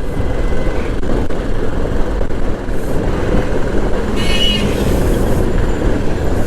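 Motorcycle under way on the road: a steady rush of engine, road and wind noise, with a brief high-pitched tone about four seconds in.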